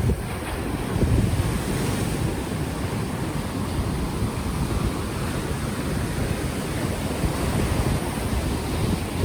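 Ocean waves washing onto the shore, with a steady wash of surf and low gusts of wind buffeting an unshielded microphone.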